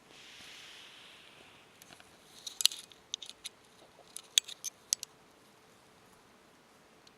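Toy poodle puppies moving about, a soft hiss at first and then a flurry of light, sharp clicks and scratches, like small claws on a hard surface, for a few seconds in the middle.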